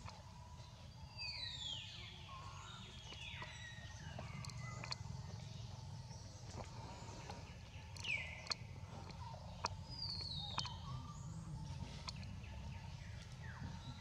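Birds calling with short whistled notes that fall in pitch, heard several times, over a steady low rumble, with a few sharp clicks in between.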